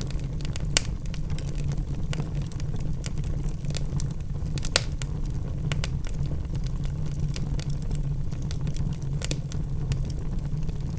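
Logs burning in a fireplace: a steady low rumble of the fire with scattered crackles and a few sharper pops, about a second in, near the middle and near the end.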